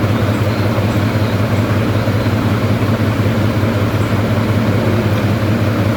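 A steady, unbroken mechanical drone with a constant low hum.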